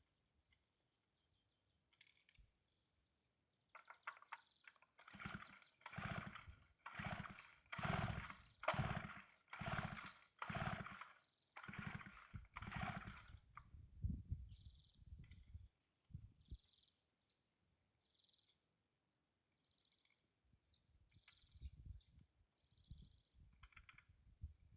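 Chainsaw being pull-started: the starter cord yanked about nine times in quick succession, each pull a short whirring rasp, with the engine not catching.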